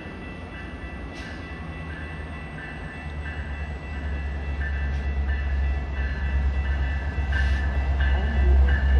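Metra commuter train pulling into the station: its deep rumble grows steadily louder as it nears, strongest toward the end.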